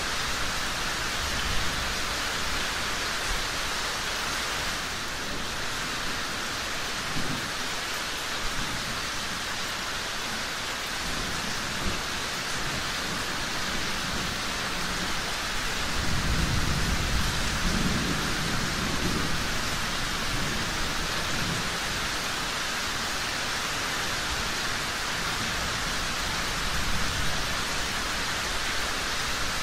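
Steady rain falling, with a low rumble of distant thunder that swells a little past halfway and fades again.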